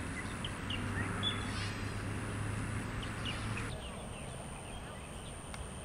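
Outdoor garden ambience with scattered short bird chirps. A low steady hum runs through the first part and stops suddenly about two-thirds of the way through, when the background changes.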